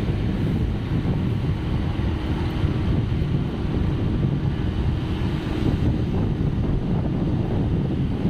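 Wind buffeting the microphone: a steady, loud low rumble that flutters throughout.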